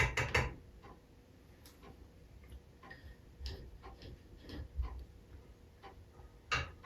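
Irregular light clicks and taps of small metal engine parts being handled and fitted, with one sharper click near the end.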